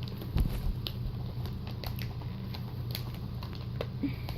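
Sealed plastic packaging crinkling and rustling in the hands, with irregular small clicks, as it is pulled open to free the items inside. A steady low hum runs underneath.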